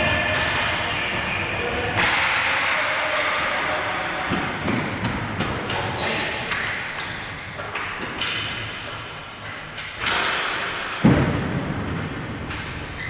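Hockey game play: scattered sharp thuds and slams of sticks and the ball or puck striking the rink boards, with the loudest knocks about 2, 10 and 11 seconds in.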